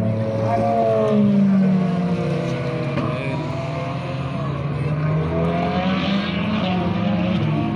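Historic rally car engine revving hard under load, its pitch climbing and dropping repeatedly as it shifts through the gears.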